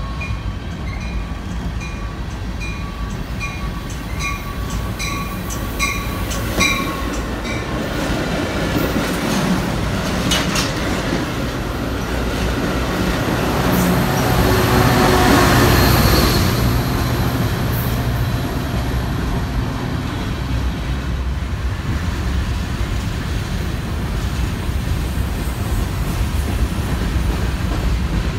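Freight train of covered hopper cars rolling past with a steady wheel rumble and rail clatter, while a bell dings about twice a second for the first several seconds. About halfway through, a Metra commuter train passes close on the nearer track, the loudest part, with a high whine over the rumble, before the freight's steady rolling carries on.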